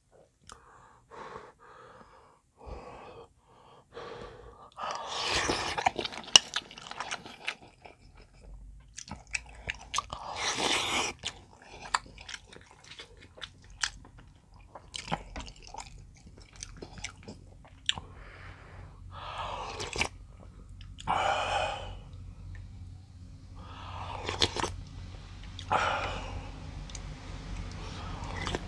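Close-miked chewing of dumplings from a dumpling soup, with scattered small clicks and several louder noisy bursts.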